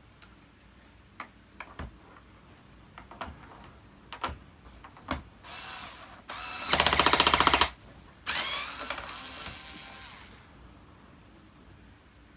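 Small clicks and taps of tools on plastic, then a power screwdriver or drill runs in a loud, fast-pulsing burst of about a second, followed after a short gap by a second, fading run, as screws are taken out of a vacuum cleaner's housing.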